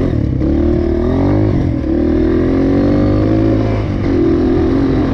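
Dirt bike engine running under throttle, its pitch rising and falling as the rider opens and closes the throttle: a climb about a second in, a drop near two seconds, another change around four seconds.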